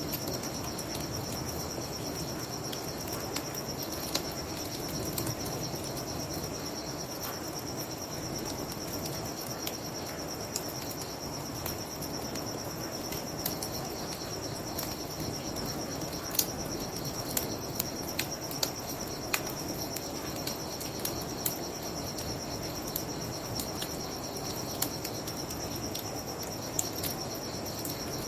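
Crickets chirping steadily in a high band over a low, even rush, with the sharp crackles and pops of a wood bonfire scattered throughout, coming more often in the second half.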